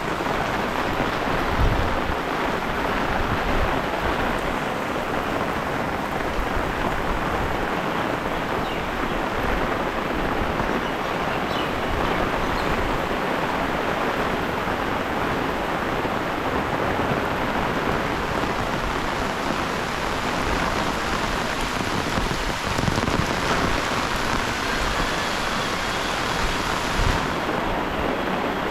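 Heavy rain falling steadily as a dense hiss, with a few low thumps.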